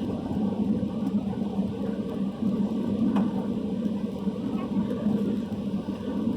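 Airbus A320 cabin noise heard from inside the cabin: a steady rumble of the jet engines and airflow, with a faint click about three seconds in.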